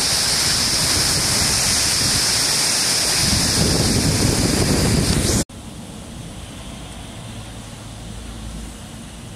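Cloudburst rain pouring down in a thunderstorm, a loud steady hiss with gusts of wind buffeting the microphone. About halfway through it cuts off abruptly to a much quieter steady rush.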